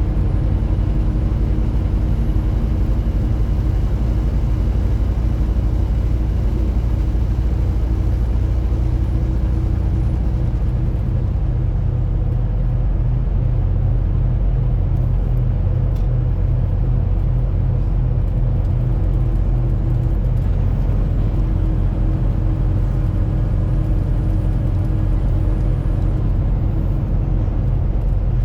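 A semi truck driving at a steady pace: a constant low engine drone with road rumble and a few steady tones above it.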